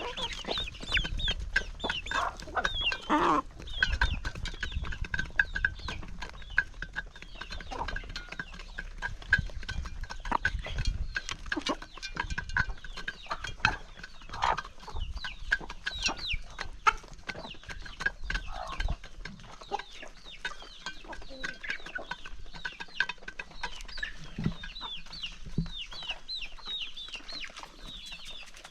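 A flock of chickens clucking and calling while feeding, with many short, sharp clicks throughout.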